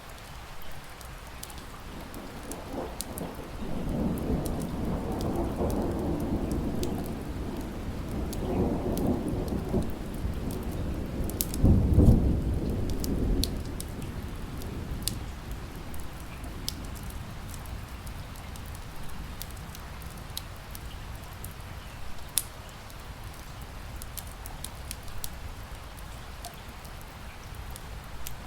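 A long roll of thunder over steady rain, building from about three seconds in to its loudest near twelve seconds and dying away a couple of seconds later. Sharp crackles from a wood fire pop throughout.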